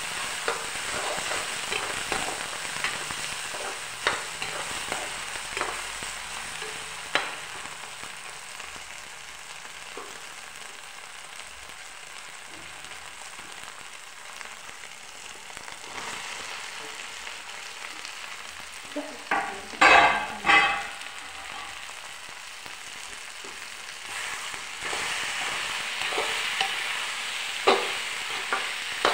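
Okra, tomato and onion frying in a pan with a steady sizzle, a spatula stirring and knocking against the pan every second or two. A louder clatter comes about twenty seconds in, and the sizzle grows louder near the end.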